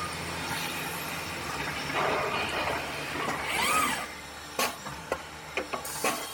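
A CNC stone-working machine running with a steady hiss. A short whine rises and falls a little past halfway, and several sharp clicks follow in the last two seconds.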